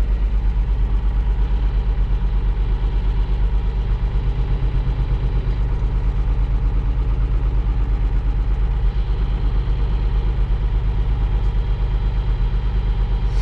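John Deere 3140 tractor's diesel engine idling steadily, heard from inside the cab, with a fast, even low throb.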